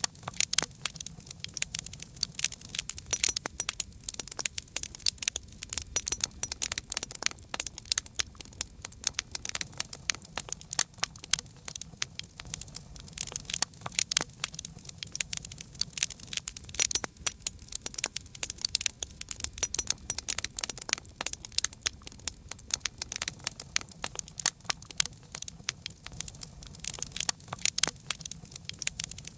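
Campfire crackling: a dense, irregular run of sharp pops and snaps over a faint low rumble of flame.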